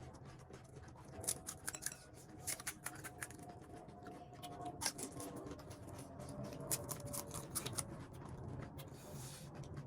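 Pani puri being eaten: crisp hollow puri shells crunching and cracking, with wet chewing, a scatter of short sharp crunches.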